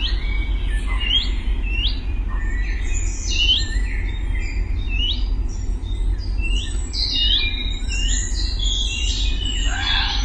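Several songbirds chirping, with short rising calls repeated every half second or so at first and then crowding into an overlapping chorus, over a steady low rumble.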